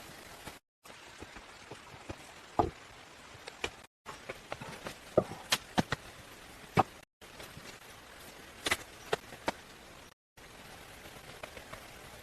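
Scattered sharp knocks and clicks of hand work over a steady background hiss, broken by three brief dead-silent gaps where the clips are cut together.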